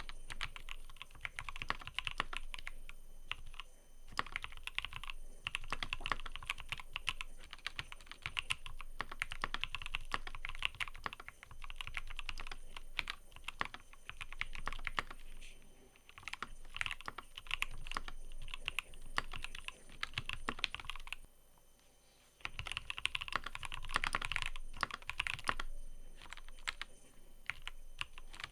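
Fast typing on a mechanical keyboard: rapid, dense key clicks in runs with short breaks, and one pause of about a second roughly three quarters of the way through before the typing resumes.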